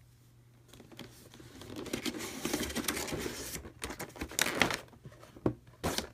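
Board-game packaging being handled: crinkling and rustling starts about a second in, followed by a run of sharp clicks and rustles as the pieces are moved about.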